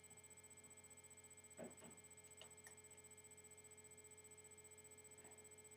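Near silence: a steady faint hum with a thin high tone, and a few faint clicks about one and a half to three seconds in.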